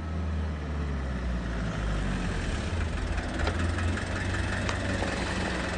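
Car engine running with a steady low rumble as a red taxi pulls in to the kerb.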